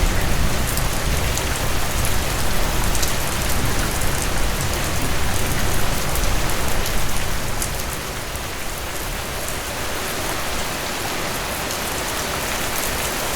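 Steady heavy rain: a dense, even hiss with separate drops ticking through it and a deep low rumble underneath. About two-thirds of the way through, the rumble and overall level ease off a little.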